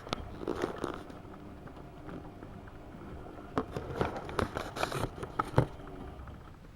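AEG Öko-Lavamat 72520 front-loading washing machine running a wash, its drum turning with a low hum while wet laundry and water slosh and clatter inside in irregular bursts, once near the start and again through the middle.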